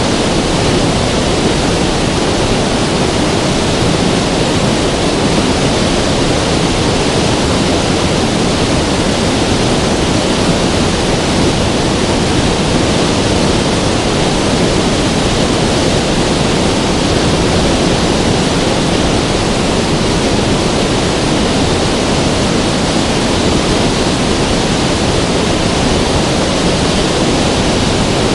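River water rushing in a steady, unbroken roar of noise that does not change.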